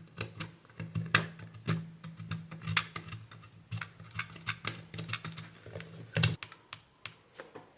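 Irregular small clicks and taps of hand tools working on an electronic circuit board, as the positive supply line is being disconnected. A steady low hum runs underneath and cuts off right after a louder click about six seconds in.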